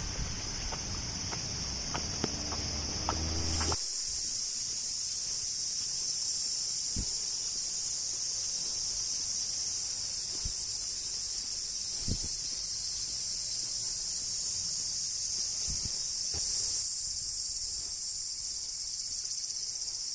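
Steady, high-pitched chorus of summer insects shrilling. Some lower background noise and light clicks drop away suddenly about four seconds in, and a few faint taps follow.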